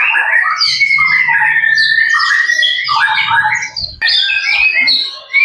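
White-rumped shama singing loudly: a rapid run of varied whistled and chattering phrases, with one long drawn-out whistle about a second in and a short break a little before the end.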